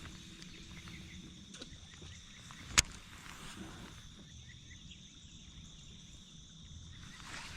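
Faint outdoor ambience with a steady high insect drone, and one sharp click a little under three seconds in.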